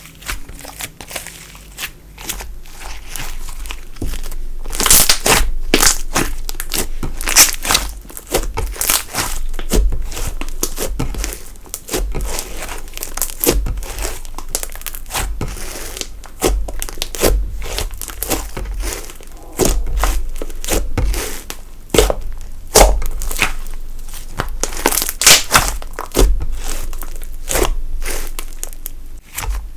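Slime being squished, folded and stretched by hand, giving dense, irregular crackles and pops.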